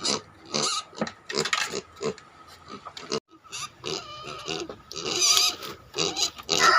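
Native pigs in a pen making a rapid, uneven series of short grunts and squeals, with a brief pause about three seconds in: the pigs begging for more feed even though they are already full.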